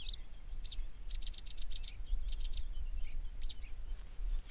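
Small birds chirping in quick runs of short high notes, with a fast string of about seven chirps around a second in, over a low steady rumble.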